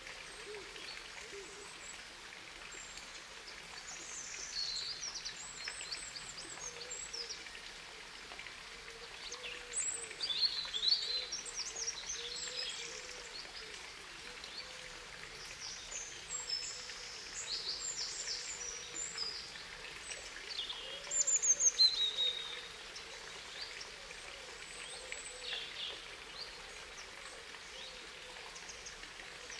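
Several birds chirping and singing in short, high calls scattered throughout, with louder bursts about a third of the way in and again past the two-thirds mark. A faint, low, wavering call repeats underneath.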